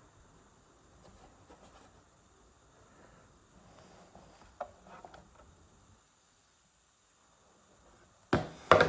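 Faint handling noise with a few small clicks, then two loud sharp knocks close together near the end.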